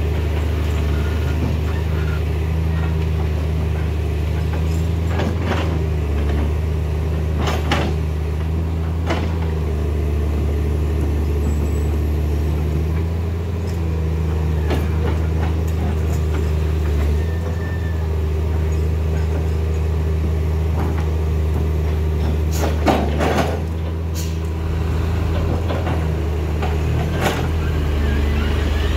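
Heavy diesel truck engine running steadily at low revs. Several brief sharp sounds come over it, the strongest a double one about three-quarters of the way through.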